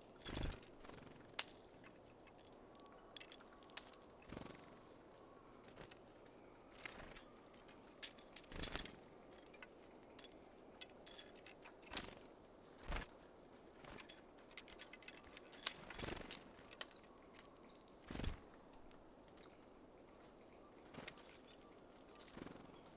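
Small birds at a feeder: irregular sharp taps and soft thumps as they land and work at seeds, with a few faint, very high, thin calls.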